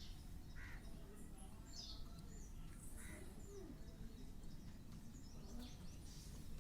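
Faint, scattered bird chirps, short calls coming every second or so, over a low steady background rumble.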